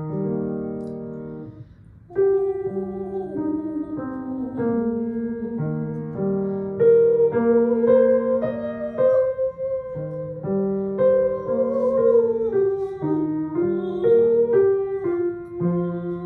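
Piano accompaniment playing a series of chords under a voice singing a vocal exercise on the 'oo' vowel, the sung line gliding between notes.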